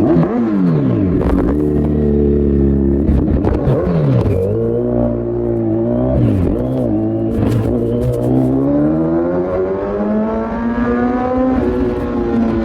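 Kawasaki Z900's inline-four engine through an Akrapovic full exhaust system, revving up and dropping sharply several times as it is throttled and shifted, then pulling in a long, slow rising climb in pitch near the end.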